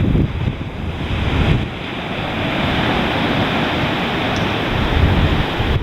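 Ocean surf washing on a beach, a steady hiss that swells about a second and a half in, with wind gusting on the microphone.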